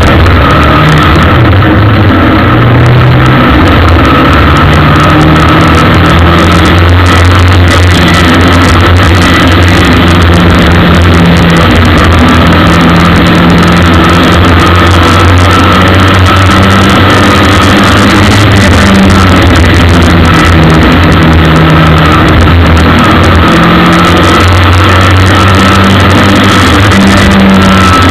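Ministock race car engine heard from an onboard camera inside the car, running hard under racing load, its pitch rising and falling with the revs. Loud and steady in level throughout.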